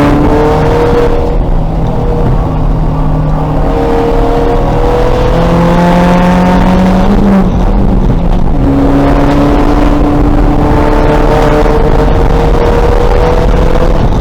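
2000 Volkswagen Golf race car's engine running loud under load, its pitch climbing slowly. It falls back about seven seconds in, then climbs again.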